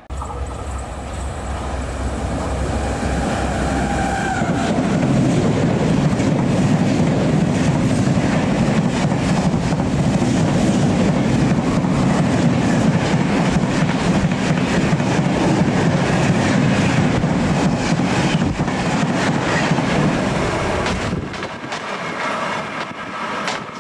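Express train of passenger coaches passing close by at speed: a dense rumble and hiss of wheels on rail with rapid clickety-clack over the rail joints. A falling tone sounds as the front of the train goes by about four seconds in, and the noise drops away a couple of seconds before the end.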